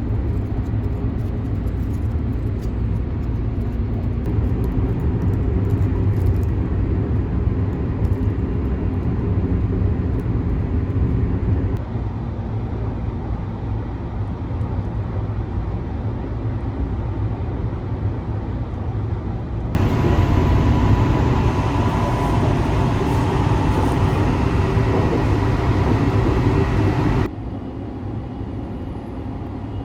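Sunrise Izumo sleeper train (285 series electric train) running, a steady low rumble of the ride. For several seconds in the second half it turns louder and brighter, then drops back abruptly.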